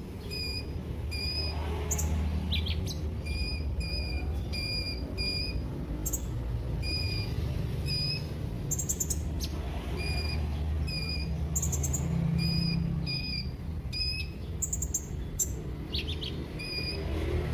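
Sunbird (the bird called 'kolibri' in Indonesian) calling: short chirps repeated about once or twice a second, mixed with sharp high ticks and brief trills, over a steady low background rumble.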